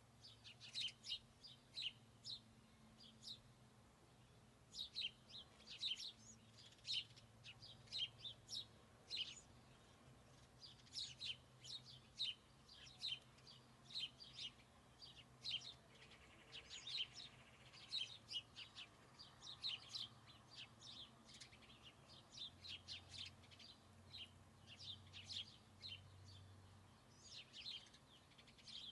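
Small birds chirping: many short, high chirps in quick runs with brief gaps between them.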